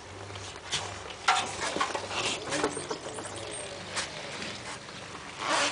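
Light handling noise: scattered small clicks, taps and rustles over a faint low hum.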